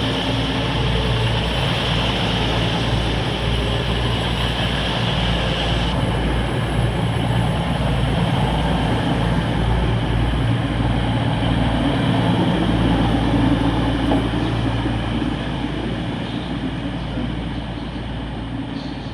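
A train running through the station with a loud, steady rumble. A hiss stops suddenly about six seconds in, and the sound eases slightly near the end.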